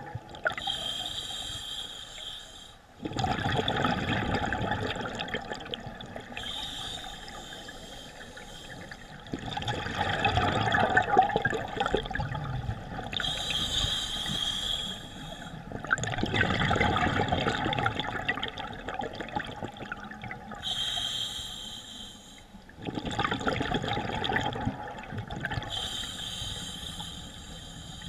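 Scuba diver breathing underwater through a regulator: a short inhale through the regulator, then a longer rush of exhaled bubbles, repeating about every six to seven seconds, four breaths in all.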